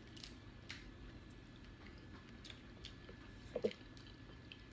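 Faint chewing and small mouth and finger clicks of people eating with their hands, over a low steady hum.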